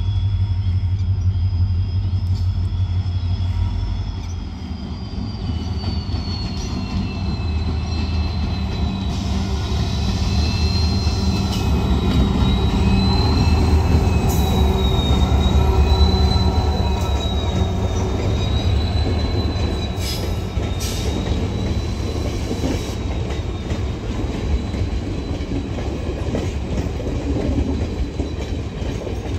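Diesel-hauled passenger train rolling past with a high, wavering wheel squeal over a low rumble. The rumble is loudest about halfway through, and the squeal fades out near the end.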